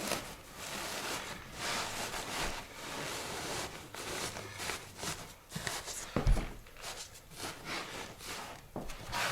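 Irregular rustling and scraping of materials being handled during installation work, with a heavy thump about six seconds in.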